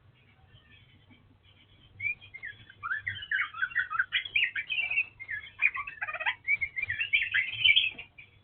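Oriental magpie-robin of the black 'kacer wulung' form singing a fast, varied run of whistled notes and quick pitch sweeps. The song starts about two seconds in after a few faint chirps, and stops shortly before the end.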